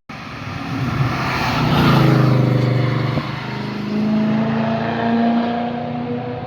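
A car engine driving past: the note swells and drops in pitch about two seconds in, then climbs steadily as the car accelerates away and fades.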